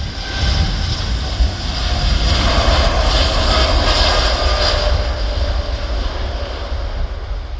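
Jet airliner's engines at takeoff power as it climbs out past, the noise swelling to a peak around the middle and then easing off.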